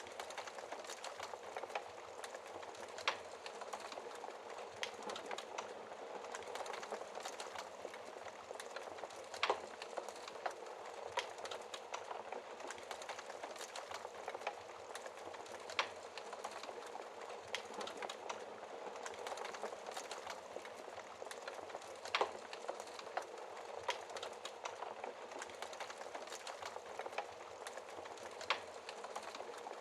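Wood fire crackling in a fireplace: a steady hiss of small crackles, with a sharp louder pop about every six seconds.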